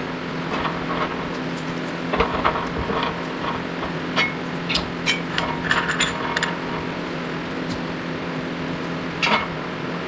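Metal clinks and taps, scattered and irregular, over a steady low mechanical hum: tools and parts being handled at a shop press while a wheel bearing is pressed out of a steering knuckle.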